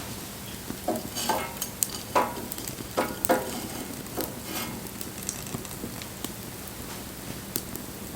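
Wood fire burning: a steady hiss with sharp crackles and pops, with a flurry of pops about one to three and a half seconds in.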